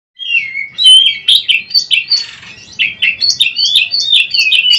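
Oriental magpie-robin (kacer) singing a fast, varied song of whistled slurs and rising and falling notes, with a brief harsh, hissing note about two seconds in.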